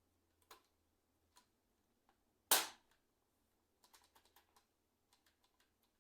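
Plastic parts of a membrane computer keyboard clicking during reassembly: a few light clicks, one loud sharp snap about halfway through, then a quick run of light clicks.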